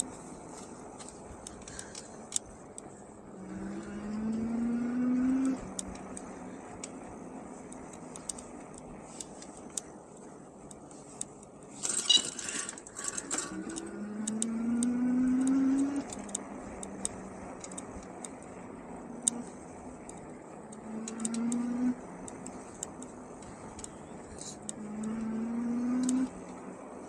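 Engwe Engine Pro e-bike's 750 W rear hub motor whining, rising in pitch as it accelerates and then cutting off suddenly, four times, as power is applied and released. Scattered clicks and rattles from the bike, and a short noisy burst about twelve seconds in.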